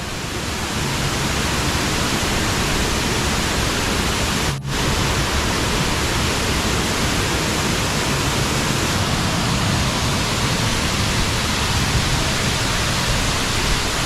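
Waterfall: a loud, steady rush of falling water, broken by a brief dip about four and a half seconds in.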